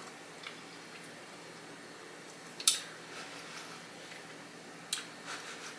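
Close-miked eating: a few separate short crunches and wet mouth clicks from chewing Flamin' Hot Cheeto-crusted fried chicken, the loudest about two and a half seconds in.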